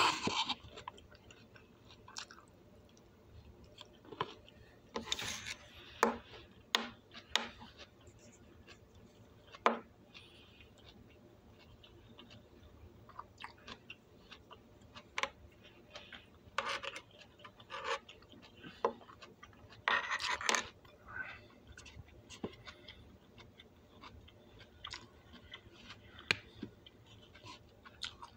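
A person chewing broccoli close to the microphone: irregular short crunches and mouth noises with pauses between, a few longer bites standing out.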